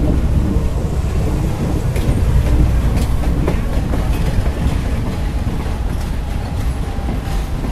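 Trains running side by side, heard from a passenger coach's doorway: a steady low rumble of steel wheels on rail with a few sharp clacks over rail joints, as a freight train of covered wagons moves alongside on the next track.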